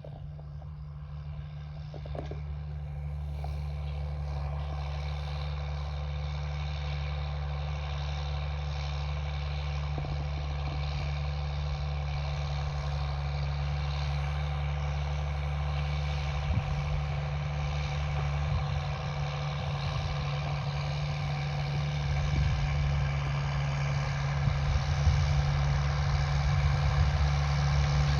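Farm tractor engine running steadily while it works the field pulling a disc harrow, gradually growing louder.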